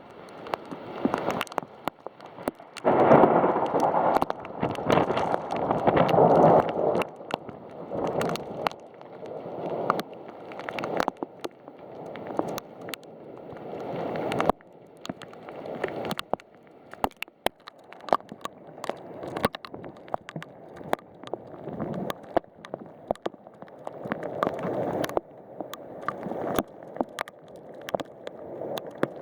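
Severe thunderstorm rain with wind gusts, and many sharp ticks of drops striking a hard surface close by. The strongest gust comes in about three seconds in and holds for a few seconds before easing.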